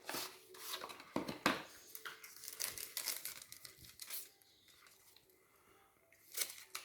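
Packaging of an Apple MagSafe silicone case being opened by hand: irregular crinkling and tearing for about four seconds, a quieter stretch, then another brief rustle near the end.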